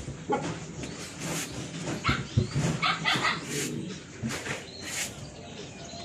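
Dogs yipping and whimpering: a busy run of short, sharp cries.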